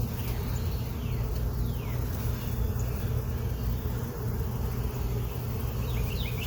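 A colony of honey bees buzzing steadily around their hive box.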